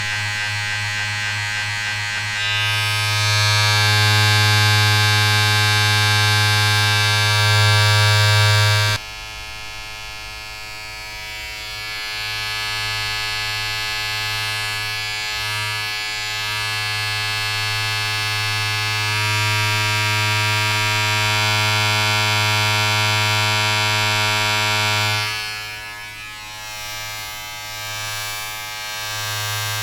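Steady electric buzz, a low hum with many even overtones, like a shaver or clipper motor. It turns louder and brighter about two seconds in, drops suddenly about nine seconds in, builds back up and drops again near the end.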